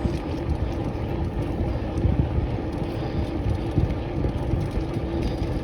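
Bicycle riding along a wet path: wind buffeting the microphone over the rush of the tyres, steady throughout with uneven low gusts.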